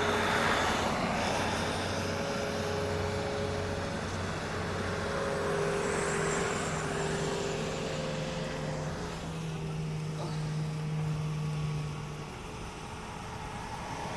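A car driving: a steady engine hum and road noise, the engine note shifting a little about five seconds in and dropping back near the end.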